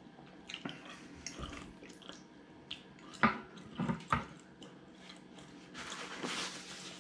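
Close-up chewing of a mouthful of steak pie, with wet mouth clicks and smacks and a couple of sharper clicks about three and four seconds in. Near the end, paper rustles as a tissue is pulled out.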